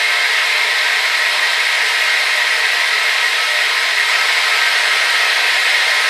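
Hair dryer running steadily: an even, unbroken rush of blown air with the fan motor's hum, strongest in the upper middle and thin in the bass.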